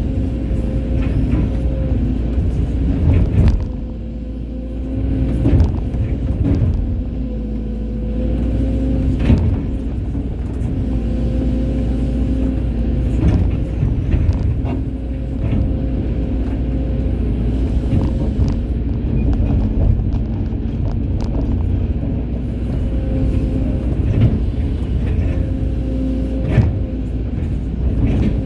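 Hydraulic excavator's diesel engine running steadily, a held drone that wavers slightly in pitch over a deep rumble, with occasional sharp knocks from the machine at work.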